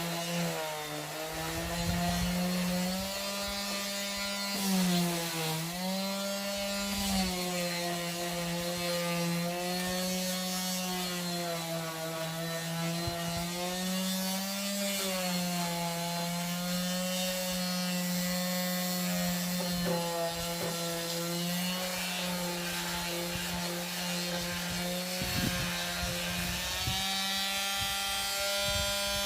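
Electric sander running on wood: a steady motor hum over the hiss of sandpaper on the surface. The motor's pitch sags briefly a few times as it is pressed harder into the wood.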